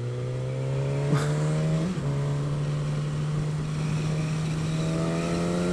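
2015 Suzuki GSX-S1000's inline-four engine running under gentle acceleration, its pitch rising steadily. About two seconds in the pitch dips briefly at a gear change, then it climbs again.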